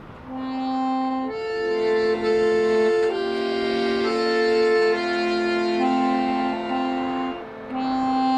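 Accordion playing a melody of sustained reedy notes over held chords, starting a moment in and pausing briefly near the end.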